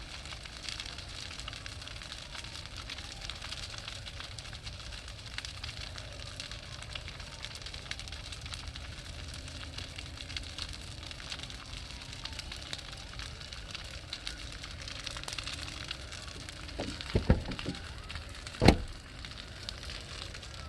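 Large bonfire crackling and hissing, with many small snaps throughout. Two sharp pops or knocks stand out near the end, the second the loudest.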